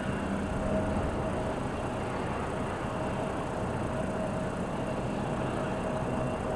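An airliner being towed by a tow tractor: a steady low rumble with a thin, steady whine over it.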